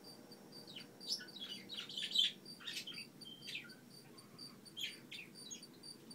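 Small birds chirping in a string of short, quick falling calls, loudest about two seconds in, over a steady high chirp that repeats evenly a few times a second.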